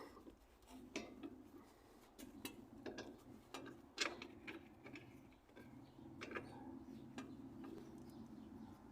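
Faint, irregular clicks and taps of metal hand tools being handled, a few spread over several seconds.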